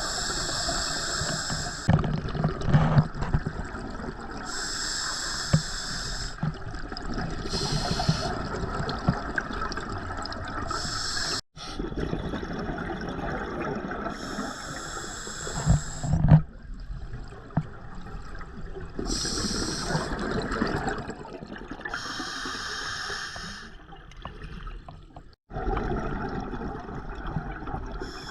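Scuba diver breathing through a regulator underwater: a hiss with each breath drawn every few seconds, and bubbling water between.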